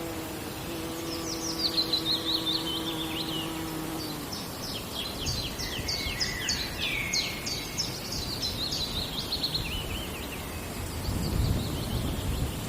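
Songbirds singing in a forest, with rapid trilled phrases of quick, sharply falling notes repeated over several seconds. A faint steady hum sits under the first few seconds, and a low rumble rises near the end.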